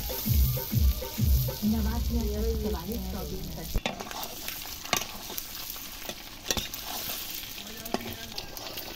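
Boiled eggs frying in oil in an iron kadai, sizzling, while a steel spatula stirs and scrapes them around the pan. The scraping knocks are loudest in the first four seconds; after that the sizzle goes on with a few sharp clicks.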